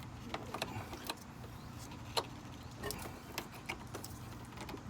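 Scattered light clicks and knocks of hands working a plastic condenser cooling-fan assembly out of and into its place in a truck's engine bay, over a steady low hum.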